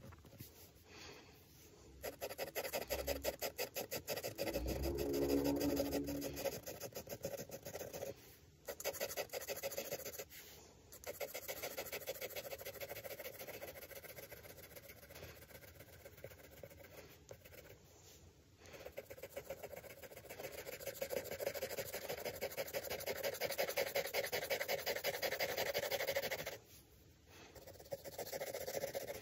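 A drawing tool scratching on paper in long runs of fast back-and-forth strokes, as in sketching or shading, with a few short pauses.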